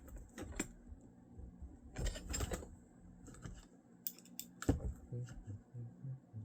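Scattered light clicks, taps and rattles of small parts and tools being handled, with a few sharper clicks about four to five seconds in.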